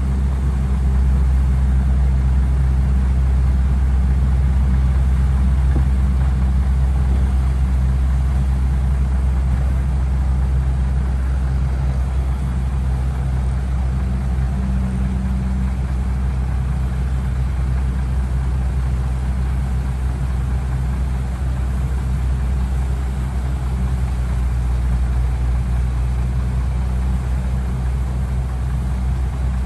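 Heavy diesel engine of earthmoving equipment running steadily at a low, even pitch, with no revving or breaks.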